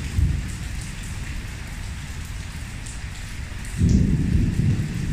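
Heavy thunderstorm rain falling steadily on a pool and its tiled deck, a continuous hiss. A low rumble swells about four seconds in.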